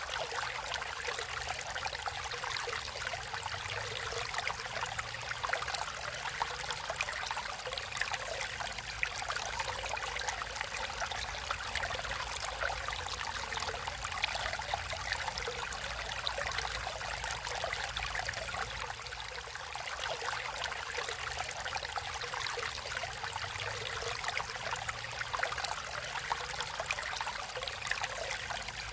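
Stream water flowing and trickling steadily, a continuous splashing rush without pauses.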